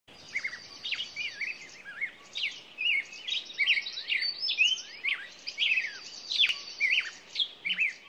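Birdsong: a busy run of quick chirps and whistled notes, many sweeping up or down, over a high trill that comes and goes.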